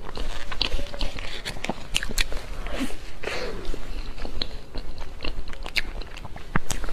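Close-miked eating: biting into and chewing a chocolate-coated dessert, with soft crackles of the chocolate shell and repeated wet mouth clicks.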